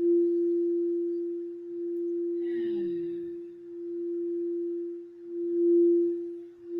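Singing bowl holding one steady, nearly pure tone that swells and fades in slow waves.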